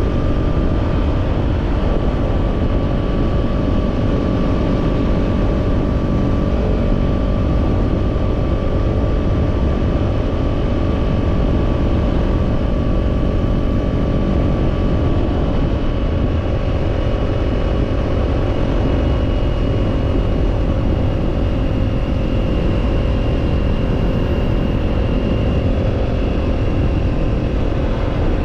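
Kawasaki Z parallel-twin motorcycle engine running steadily at a cruising speed, its pitch drifting only slightly, under heavy wind and road rumble.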